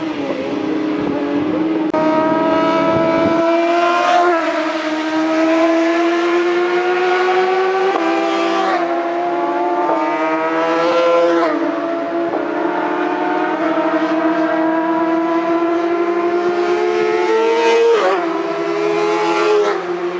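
750cc racing motorcycle engine under hard acceleration, the pitch climbing steadily and then dropping sharply at each upshift, about four shifts in all, the last near the end.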